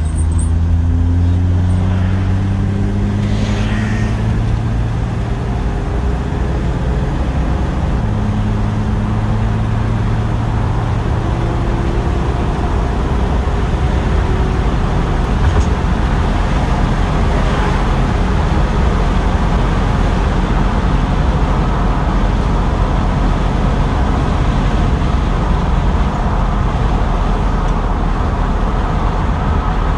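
1966 Ford Mustang's 200 cubic-inch inline six with automatic transmission, driving: the engine note climbs as the car accelerates and shifts about eight seconds in. It then settles into a steady cruise with road and tyre noise.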